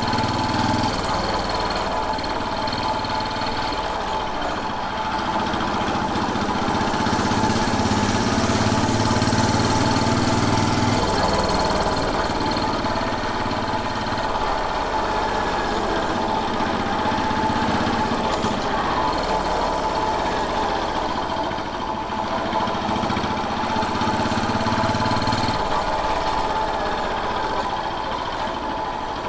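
Royal Enfield Bullet 500's single-cylinder four-stroke engine running while the motorcycle is ridden, growing louder for a few seconds near the middle.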